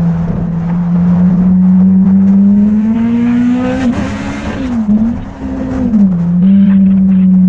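Motorcycle engine running under way, its note climbing for a couple of seconds, wavering, then dropping back to a steady pitch about six seconds in, with a brief rush of noise in the middle.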